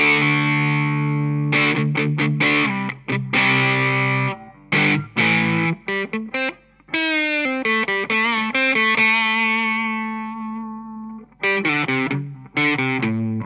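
Distorted electric guitar through a Livingston Heavy Metal distortion pedal boosted by an Ibanez TS9 Tube Screamer, into a Laney amp and Fender cab. It plays a riff of short, stopped chords with brief gaps, and in the middle a long held note with slight vibrato that fades away before the stabs return.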